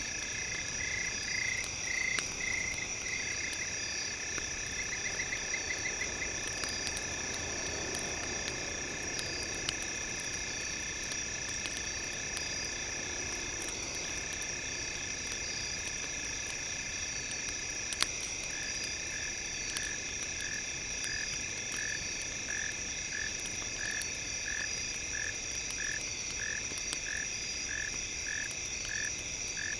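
Crackling campfire mixed with several steady high tones. A rhythmic pulsing tone repeats about twice a second through the second half.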